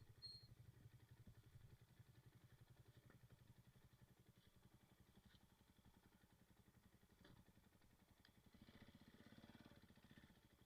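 Near silence: a faint low rumble throughout, with a couple of short high chirps right at the start and a faint swell of noise about nine seconds in.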